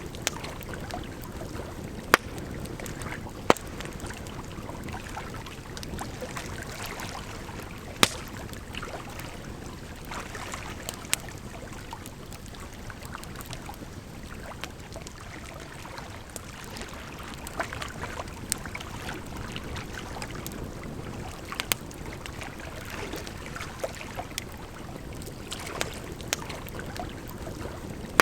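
Campfire crackling, with irregular sharp pops and a few louder snaps, over a steady rush of flowing water.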